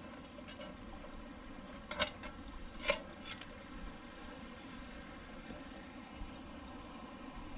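Faint steady murmur of a small stream, with two sharp knocks about a second apart near the middle.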